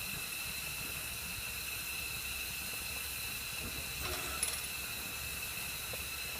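Steady hiss of steam from the Commonwealth Railways NM class steam locomotive NM25 standing in steam, with a single faint knock a little past the middle.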